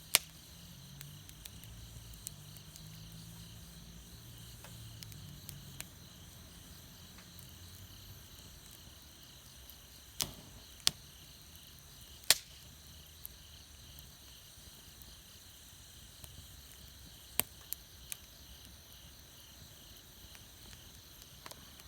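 Campfire wood crackling, with a few sharp pops: one right at the start, a cluster about ten to twelve seconds in and another around seventeen to eighteen seconds in. Insects chirr steadily behind it.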